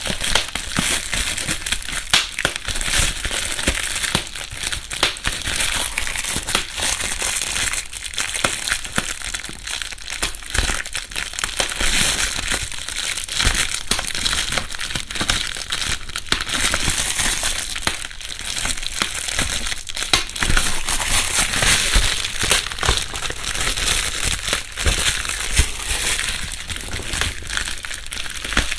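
Plastic bubble wrap being handled and crumpled, a constant rustling scattered with many small crackling pops as its air bubbles burst, recorded binaurally.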